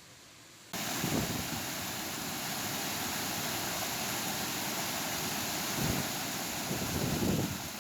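Heavy rain pouring, as a steady hiss that starts abruptly about a second in, with wind buffeting the microphone in a few low gusts, the last two near the end.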